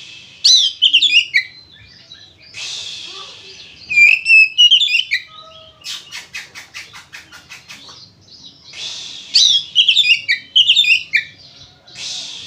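Oriental magpie-robin (kacer) singing hard in full fighting song: loud phrases of quick whistled notes sliding downward, alternating with harsh hissing rasps. About halfway through comes a fast run of dry clicks, roughly eight a second.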